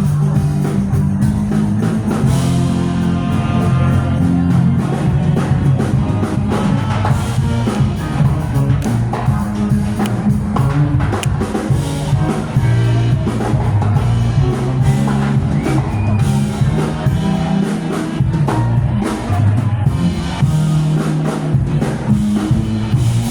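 Live rock band playing, with a drum kit keeping a steady beat under bass and vocals.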